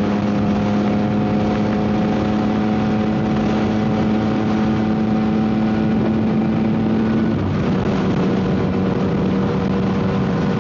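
Yamaha MT-09 SP three-cylinder engine through a Dominator GP aftermarket exhaust, holding a steady drone while riding, with wind noise over the microphone. The engine note drops slightly about seven seconds in.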